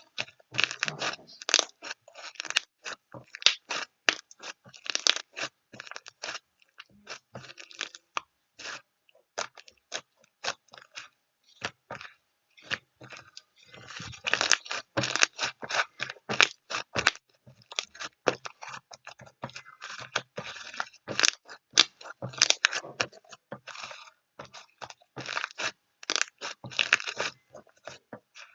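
Dense, irregular crunching and crackling, a rapid run of sharp clicks that thins out for a few seconds around the middle and then picks up again.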